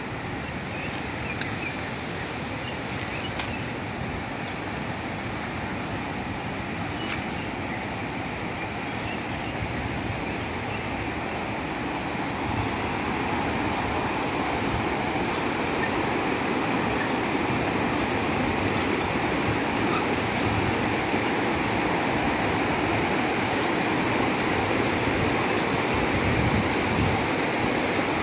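Steady rush of water pouring down the Chamang waterfall, growing louder from about halfway through.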